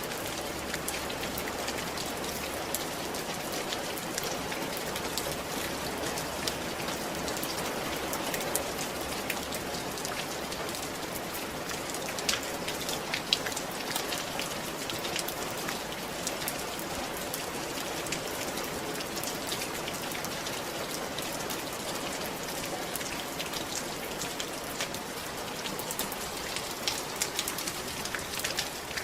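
Steady rain falling on a roof, with many separate drop hits ticking through a constant wash of rain noise.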